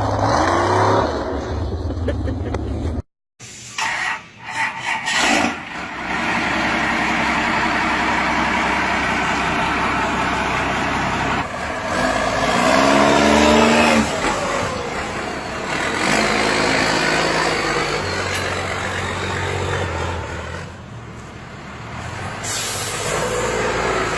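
Big truck engines running and revving, with pitch rising and falling in several sweeps. The sound cuts out sharply for a moment about three seconds in, and there is a short hiss near the end.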